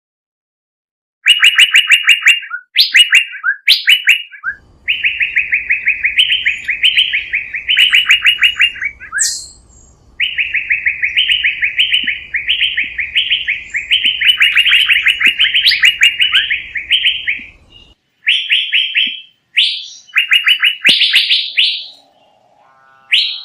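A songbird singing long, fast trills of rapidly repeated notes, broken by short rising whistles, in several bursts with brief pauses between them.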